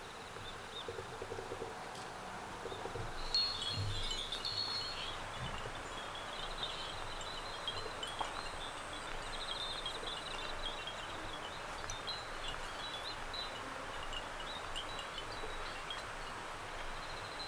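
Many small handmade ceramic wind bells tinkling together in the breeze, a busy scatter of high, light strikes over a soft wind hiss, picking up about three seconds in.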